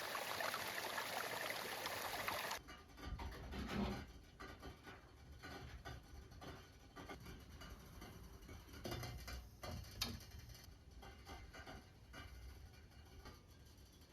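Light guitar music over a steady wash that stops abruptly about two and a half seconds in. It gives way to quiet room sound with scattered soft knocks and clicks of objects being handled, and one sharper click about ten seconds in.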